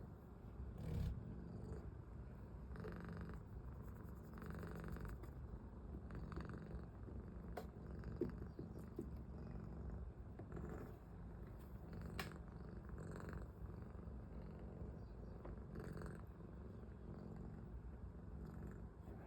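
A cat purring steadily, a low rumble that swells softly with each breath, with a few faint clicks.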